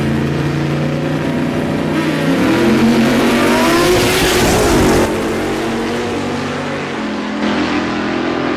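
Drag-racing car engines revving at the start line, then accelerating hard, the pitch rising and falling as a car goes past at speed about three to five seconds in. The sound cuts off abruptly about five seconds in and gives way to a steadier engine drone.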